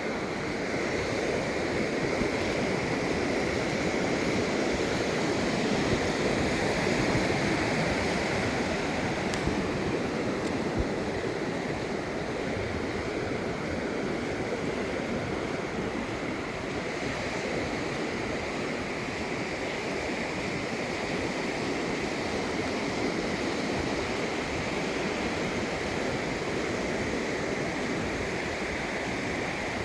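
Steady wash of ocean surf, a little louder between about four and nine seconds in.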